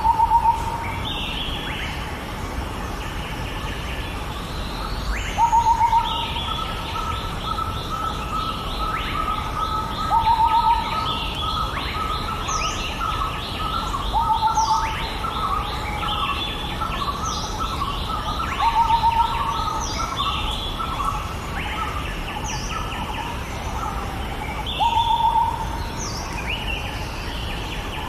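Birds calling and chirping over a steady background hiss: a short, loud call repeats every four to six seconds, with quicker trilled chirping in between.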